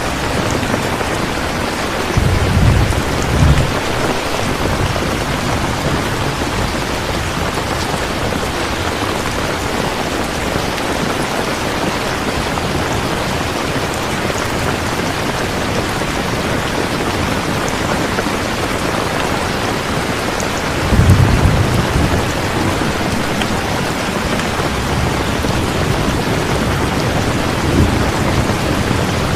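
Steady heavy rain falling, with deep thunder rumbling about two seconds in, again more strongly around the two-thirds mark, and briefly near the end.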